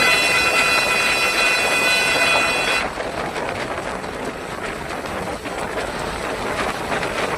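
A horn sounds in one steady blast of about three seconds, then cuts off, over a steady hiss of rain.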